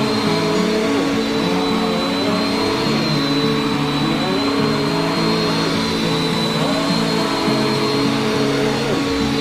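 Bissell Power Force upright vacuum cleaner running steadily as it is pushed over a rug, a constant high motor whine over the rush of suction.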